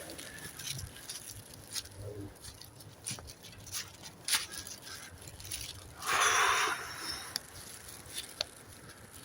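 Footsteps crackling on frozen woodland ground, with scattered clicks of twigs. About six seconds in there is a louder rustle lasting under a second.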